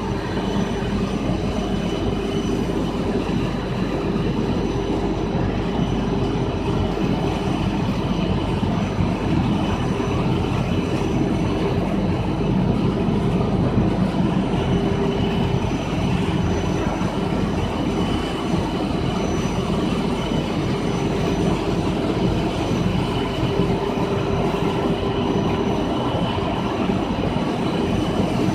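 A PVC/WPC foam sheet extrusion line running, a steady machine noise with a constant hum and a faint high whine over it.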